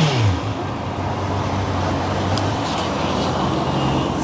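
Honda CB650R's inline-four engine idling steadily, with a slight rise in pitch near the end, over the broad noise of traffic.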